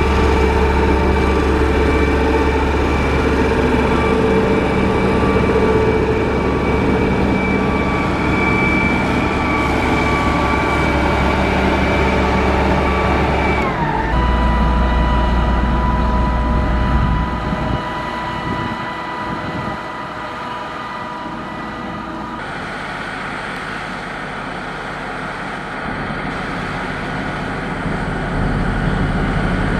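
Motor grader's diesel engine running under load. Its note drops about halfway through, it is quieter for a while, and it grows louder again near the end.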